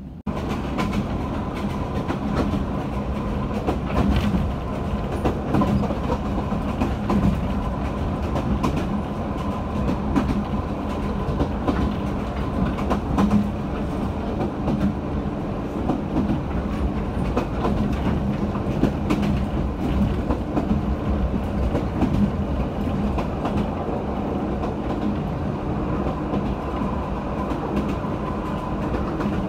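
Toyama Chiho Railway electric train running at speed, heard from inside the carriage: a steady rumble of wheels and running gear with a low hum, and scattered clicks of the wheels over the rails.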